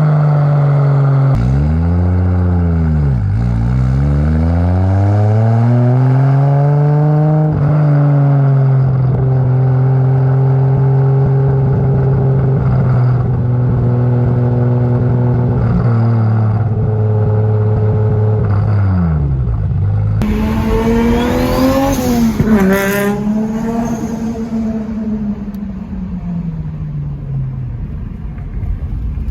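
Mk4 Toyota Supra's inline-six engine under load: its note drops and climbs again a few times early on, then holds a steady pitch. After a sudden change about 20 seconds in, it revs up and falls away again.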